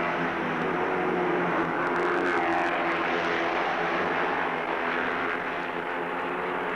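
Racing motorcycle engines running hard as a group of machines goes by, a steady drone of several engines.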